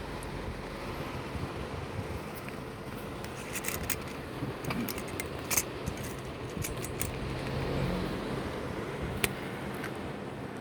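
Inside a car: a steady low rumble with scattered light, sharp clicks and taps, thickest around the middle.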